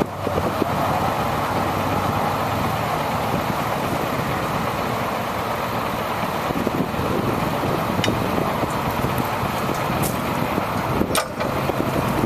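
Heavy truck's engine running steadily, with a few faint ticks along the way.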